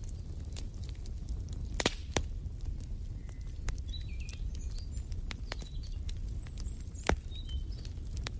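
Wood fire crackling over a steady low rumble, with scattered sharp pops, two of them louder about two seconds in and near seven seconds. Short, high bird chirps come in the middle.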